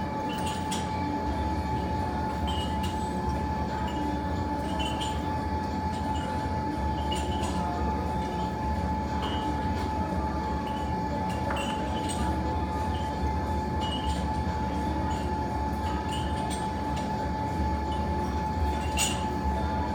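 Fire burning in a fireplace: a steady low rumble with faint, scattered crackles, over a constant high-pitched hum.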